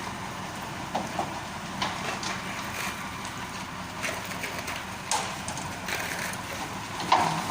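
Mitsubishi Fuso 8DC9 V8 diesel engine of a concrete mixer truck running steadily, with several short sharp knocks or clacks along the way.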